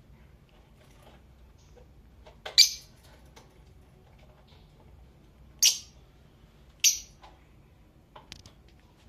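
Blue Fischer's lovebirds giving three loud, sharp, short chirps, the first about two and a half seconds in and the other two about a second apart later on, with a few fainter chirps near the end.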